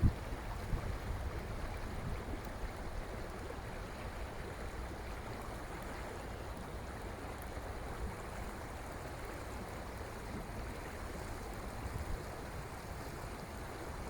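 Steady rushing of flowing water, with low gusts of wind buffeting the microphone in the first second or two.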